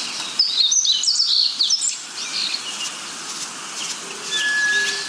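Several birds chirping and whistling over a steady background hiss. A flurry of quick sweeping notes comes about half a second in, and a single held whistle sounds near the end.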